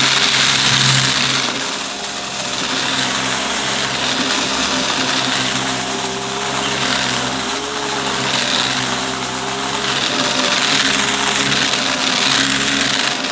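Upright vacuum cleaner running, its motor holding a steady hum under a rushing airflow that swells and fades every couple of seconds.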